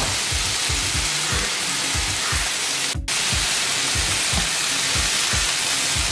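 Marinated chicken pieces sizzling in oil on a flat dosa griddle while they are turned, over background music with a steady low beat. The sound cuts out for a moment about three seconds in.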